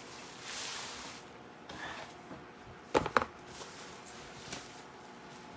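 Rubbing and brushing handling noises at a work surface, then two sharp knocks close together about three seconds in, the loudest sounds, and a faint tick later.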